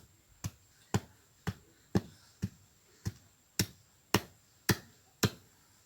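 Ten sharp knocks at a steady pace of about two a second, with a pause of about a second after the sixth: repeated blows of a tool striking hard material, like a stake being hammered in.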